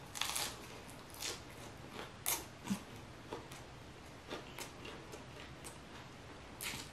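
Close-miked biting and chewing of a lettuce wrap filled with steak and spicy fried noodles: sharp, crisp crunches in the first three seconds, then softer, sparser chewing sounds.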